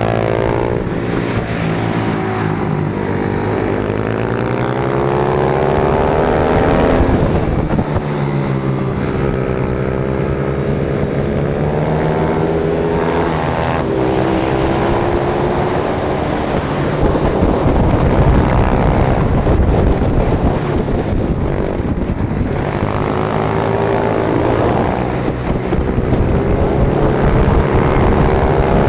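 Pit bike engine revving hard under way, its pitch climbing and dropping back again and again through the lap.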